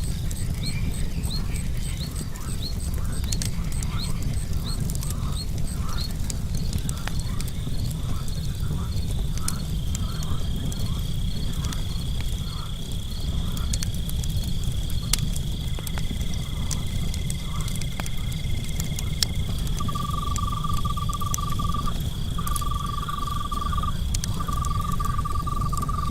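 Night insects and frogs: crickets chirping in an even rhythm, a steady high insect trill that starts about seven seconds in, and three longer frog trills near the end. Underneath are a low steady rumble and scattered sharp crackles from a campfire.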